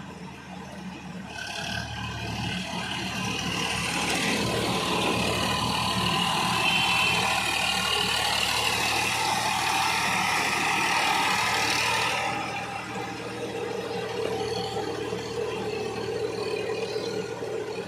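Sonalika Gardentrac mini tractor's engine running while it works a field. It gets louder about two seconds in, stays loud with a rushing noise until about twelve seconds, then drops back.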